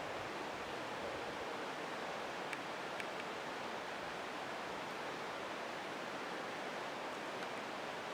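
Steady, even rushing hiss of water, with a couple of faint ticks about two and a half and three seconds in.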